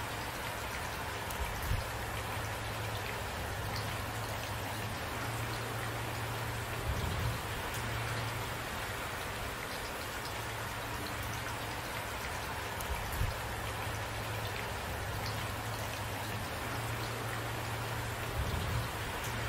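Steady rain falling and pattering on surfaces. Four brief low thumps stand out, spaced about six seconds apart.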